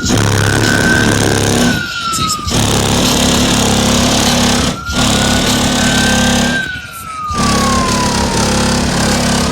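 Loud bass-heavy music played through a car audio system's two Accendant Audio Chaos 12-inch subwoofers, with a high synth-like tone slowly rising then falling twice. The sound drops out briefly three times.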